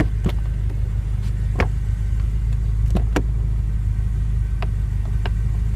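A steady low rumble with about six sharp clicks spread through it, from the 2014 BMW M5's self-closing door working and latching shut.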